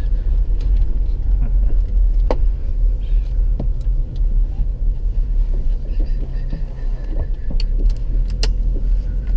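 Steady low rumble of road and engine noise inside a moving car, with a few sharp clicks or knocks.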